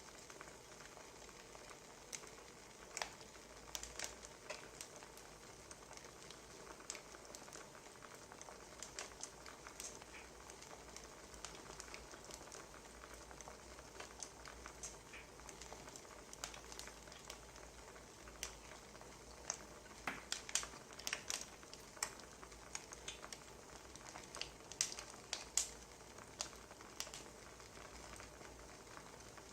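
Wood fire crackling: irregular snaps and pops over a faint steady hiss, coming thicker about two-thirds of the way in.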